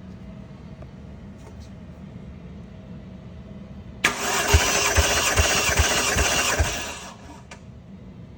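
Toyota 1JZ-GTE VVTi inline-six cranked over by its starter motor for a compression test, without firing. The whirring crank cuts in suddenly about four seconds in, with about six evenly spaced low thumps, roughly two and a half a second, and stops about three seconds later.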